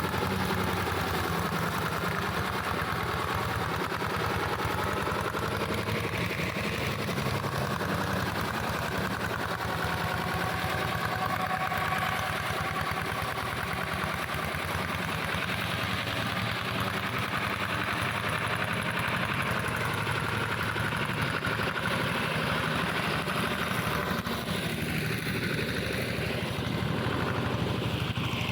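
Engine of a plough tractor converted into a grass and brush mower, running steadily with its pitch wavering a little, most noticeably near the end.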